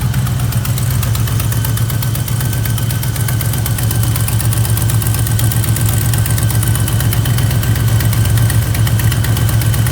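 V8 engine of a 1976 Plymouth Gran Fury wagon idling steadily, warm, with an even rapid pulse; the owner thinks it may still have a slight exhaust leak.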